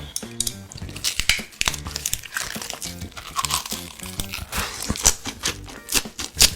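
Close-miked eating sounds: chewing, with many crisp, crinkly crunches, over background music.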